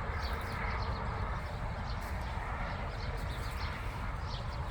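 Outdoor wind rumbling on the microphone, with many faint, irregular light ticks and rustles over it.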